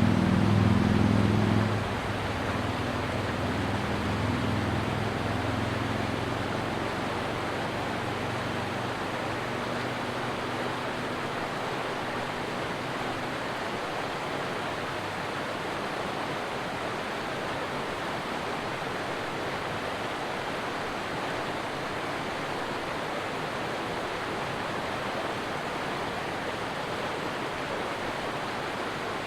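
Stream water rushing steadily. A low engine hum, like a passing vehicle, is loud for the first two seconds and then fades away over the next dozen or so.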